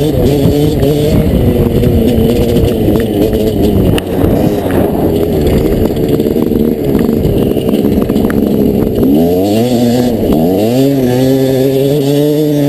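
Dirt bike engine running rough and uneven with many clicks. About nine seconds in it revs up and down twice, then settles into a steady note.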